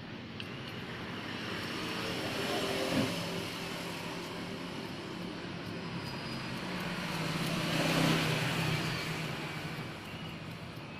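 Kemei 1990 electric hair clipper running with a steady motor buzz, swelling louder twice, about three seconds in and again about eight seconds in.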